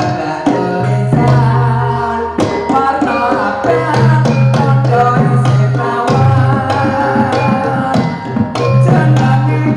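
Javanese jathilan dance music: hand drums beating a busy rhythm over a sustained low tone, with other instruments and singing.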